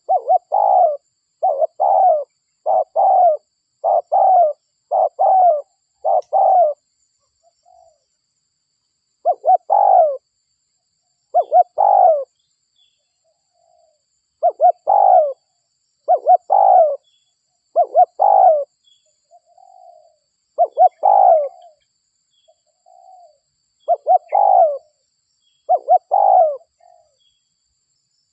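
Spotted dove cooing: a long run of short, low coo phrases, rapid at first, then repeating with gaps of a second or two.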